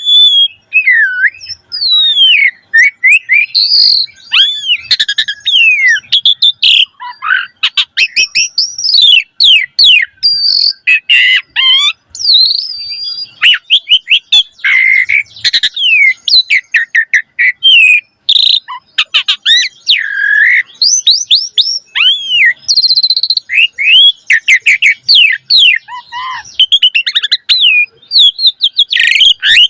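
Asian pied starling singing in full, vigorous song: a continuous, varied stream of loud whistles, slurred up-and-down notes, chirps and fast rattling trills that starts abruptly.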